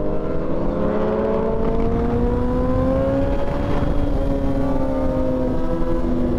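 Motorcycle engine running at cruising speed under way, its pitch rising slowly over the first few seconds and then holding steady, over a constant low rumble of wind and road noise.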